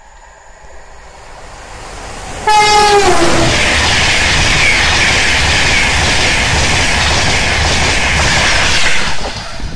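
Virgin Trains East Coast express passenger train sounds its horn about two and a half seconds in, two notes, high then low. It then passes close by at speed, a loud rush of wheels and air lasting about six seconds that cuts off near the end.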